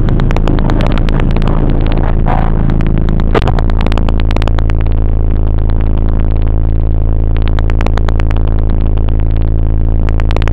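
Honda CRX's swapped-in B18C 1.8-litre DOHC VTEC four-cylinder idling steadily, heard from inside the cabin. A single thump about three and a half seconds in as the driver's door shuts.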